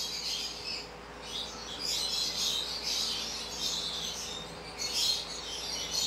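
Small pet birds chirping and twittering in repeated bursts, over a faint steady hum.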